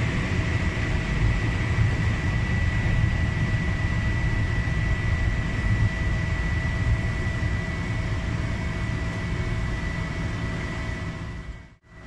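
Sangi Railway electric train running, heard from the driver's cab as it pulls away from a station: a steady low rumble of wheels on track with a steady high-pitched tone over it. The sound fades out just before the end.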